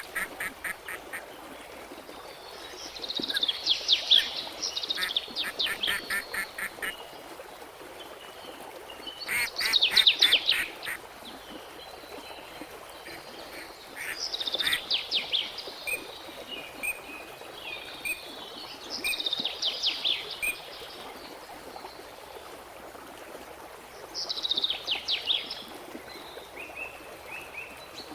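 Songbird singing: bursts of quick, repeated high notes about every five seconds, over a faint steady background hiss.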